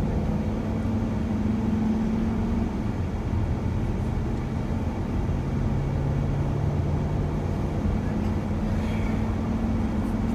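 Shuttle van driving, heard from inside the cabin: a steady low rumble of engine and road noise with a faint hum whose pitch shifts slightly.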